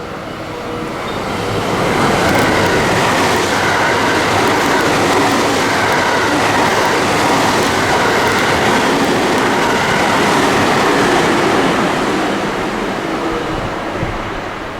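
A train passing through the station at speed without stopping: wheels and running noise build up about two seconds in, hold loud and steady, then ease off near the end.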